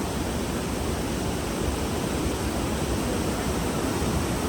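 Steady rushing of flowing river water, an even noise without breaks.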